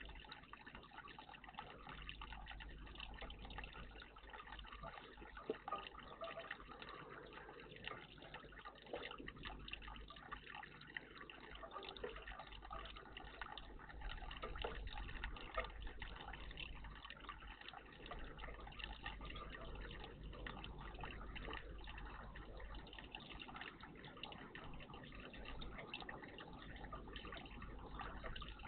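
Water of a bird bath trickling and dripping steadily, faint, with a few brief sharper splashy sounds.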